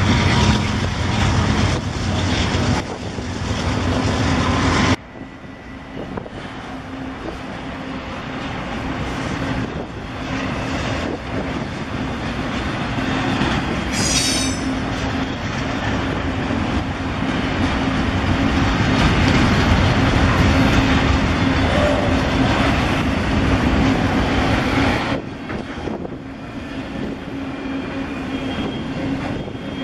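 Double-stack intermodal container cars rolling past on steel rails, a steady rumble of wheels on track. There is a brief high squeal near the middle, and the sound drops suddenly about five seconds in and again near the end.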